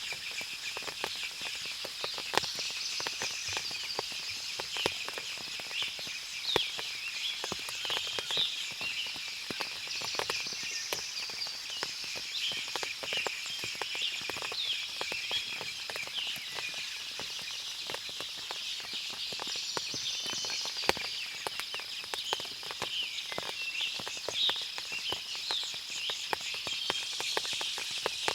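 Forest after rain: a dense chorus of short chirping bird and insect calls over a steady high insect drone, with scattered drips and ticks throughout.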